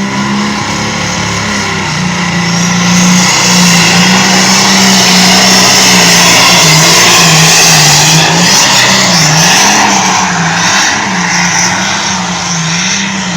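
Engine of a pulling vehicle held at full throttle as it drags the weight sled down the track. It gets louder about three seconds in, and its pitch wavers up and down in the second half.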